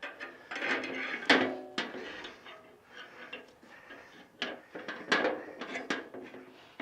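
Metal rotisserie spit and forks clinking and knocking as the spit is worked through a trussed raw chicken: a series of irregular clicks and clinks, the sharpest about a second in with a brief metallic ring.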